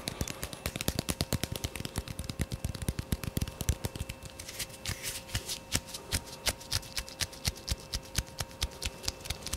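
Fast, soft ASMR tapping at a close microphone: a quick, uneven run of several taps a second, with a faint steady hum beneath.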